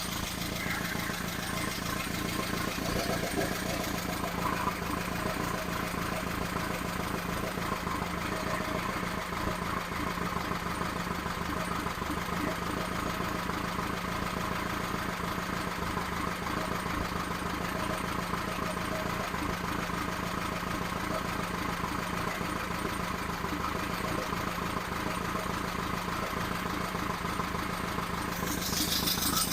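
Engine running steadily during break-in of a freshly installed camshaft, getting a little louder near the end.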